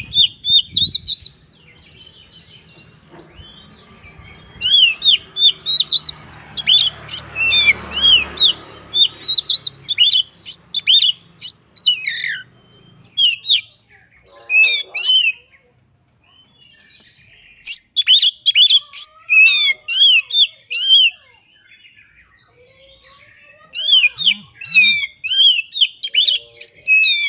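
Oriental magpie-robin (kacer) singing hard in fast bursts of sharp, rapidly repeated whistled notes, broken by short pauses. A low rushing noise runs behind the song for several seconds in the middle.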